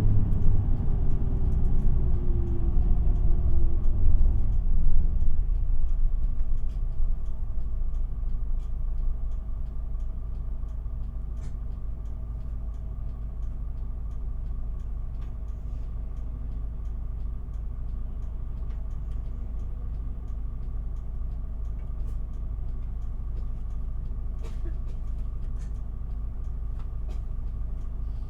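Inside an Isuzu Erga city bus: the diesel engine and drivetrain wind down with a falling whine as the bus slows over the first five seconds or so, then the engine idles steadily while the bus stands.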